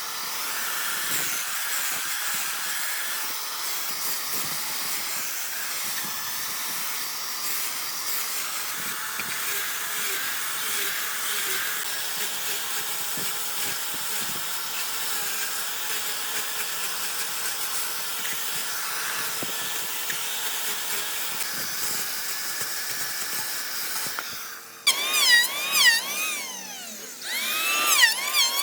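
A power tool working wood, running steadily with an even, high hiss. A little before the end it cuts off abruptly and loud warbling, wavering tones take over.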